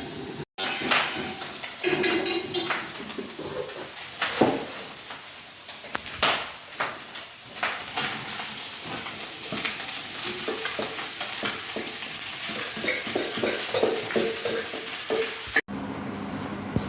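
A bricklayer's trowel scraping and working clay mortar, with a steady wet scraping and frequent short clinks and knocks of the trowel against brick.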